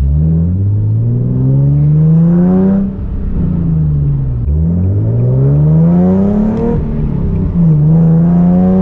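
Nissan 370Z's 3.7-litre V6 with test pipes in place of its catalytic converters, under way: the revs climb, fall away about three seconds in, climb again, then drop at a gear change near the seven-second mark and settle to a steady note.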